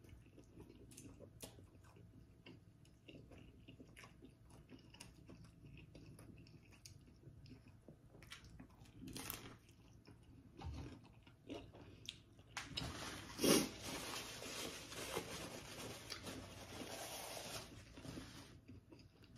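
Close-miked chewing and biting of crispy birria pizza (cheese-topped folded tortilla), with soft crunches and wet mouth clicks. About two-thirds of the way in, a louder scratchy noise lasts several seconds, with one sharp sound near its start.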